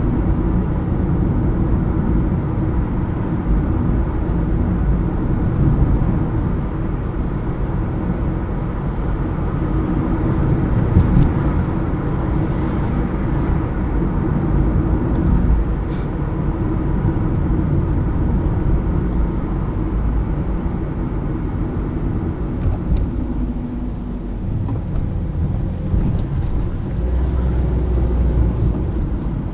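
A car being driven on town streets: steady low rumble of the engine and tyres on the road, with a few light knocks.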